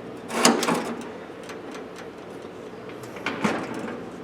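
Steel Craftsman toolbox drawer scraping as it slides in its rusty rails, twice: about half a second in and again near the three-and-a-half-second mark, with light metal clicks between.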